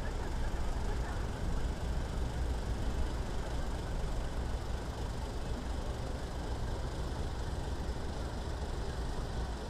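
Steady low rumble of outdoor harbour background noise with no distinct events.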